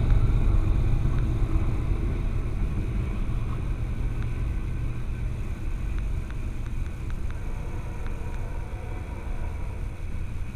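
Low vehicle rumble that slowly gets quieter, with a few faint clicks.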